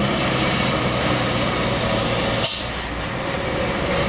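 Heavy diesel trucks running past on the road, a steady low engine drone with traffic noise, and a short hiss about two and a half seconds in.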